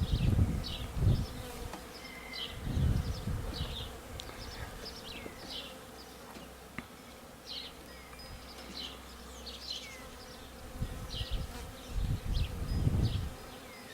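Honeybees swarming and buzzing steadily around an open hive being stocked with bees. There are a few low rumbles near the start, around three seconds in and near the end, and short high chirps.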